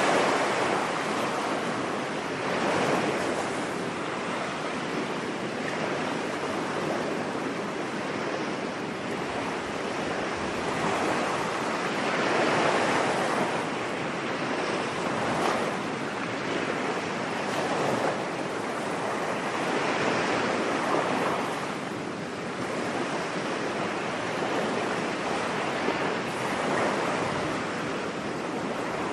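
Ocean waves breaking on a beach: a steady wash of surf that swells and ebbs every few seconds.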